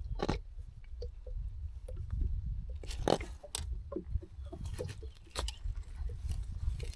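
Scattered clicks and crunchy handling noises as a hook is worked out of a small grunter's mouth, over a steady low rumble.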